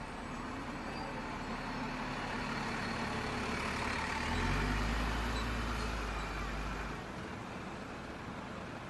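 A heavy road vehicle passing close by on a street: its deep engine rumble and road noise swell to a peak around the middle, then die away.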